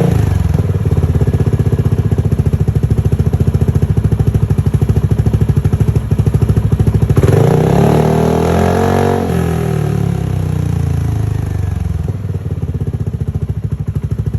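Kymco Xciting 400 scooter's single-cylinder four-stroke engine idling through an Akrapovic aftermarket exhaust with a steady pulsing note. About seven seconds in, the throttle is blipped once: the note rises and falls back to idle over a couple of seconds.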